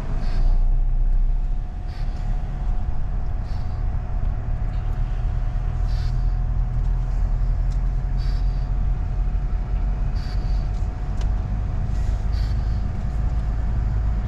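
Car interior road noise while driving: a steady low rumble of engine and tyres, with a faint steady hum and light clicks every couple of seconds.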